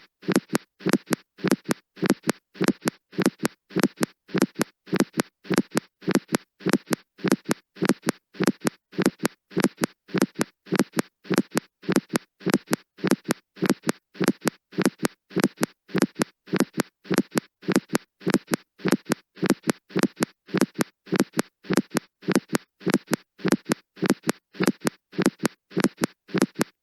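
Heart sounds in a steady, regular rhythm of short beats, with the first heart sound split: a demonstration of splitting of S1.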